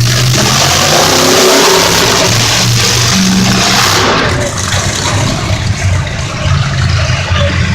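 Monster truck engine revving hard: a loud, harsh roar for the first four seconds or so, then a lower, uneven run.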